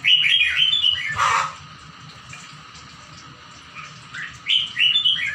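A songbird singing: a quick phrase of chirping notes at the start and another a little after four seconds in, with a short harsh call about a second in.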